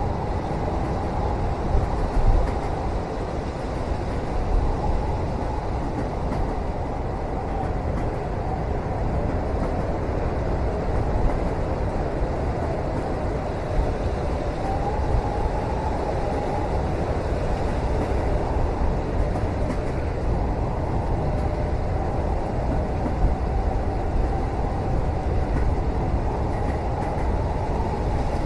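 Steady rumble of a moving train heard from inside a passenger cabin, with a faint wavering hum above it and a few light knocks.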